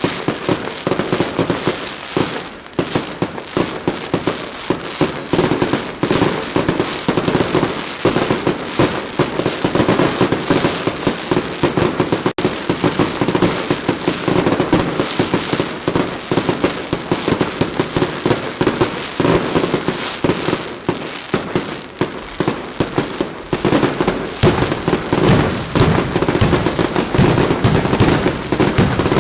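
Daylight fireworks barrage: a dense, unbroken run of rapid bangs and crackling firecrackers, growing heavier near the end.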